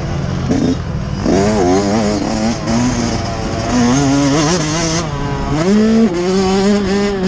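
Yamaha YZ125 two-stroke motocross engine revving hard under load, its pitch climbing about a second in and then rising and falling as the throttle is worked over the bumps.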